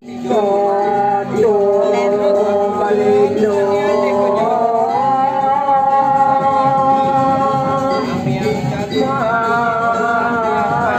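Singing in long held notes over music, after a momentary break in the sound at the very start.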